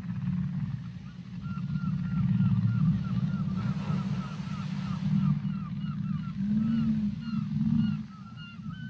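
Whale calls underwater: a dense low moan throughout, with a run of short rising-and-falling chirps higher up, about two or three a second, starting about a second in.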